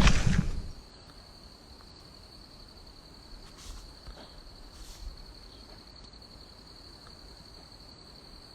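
An insect, most likely a cricket, trilling steadily at one high pitch, after a louder sound cuts off within the first second.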